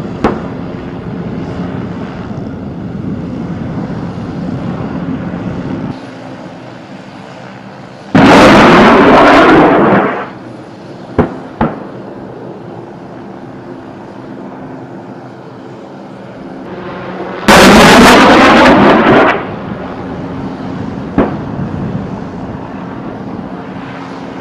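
A steady engine hum, with two loud bursts of weapons fire about eight and seventeen seconds in, each lasting about two seconds, and a few single sharp cracks between them.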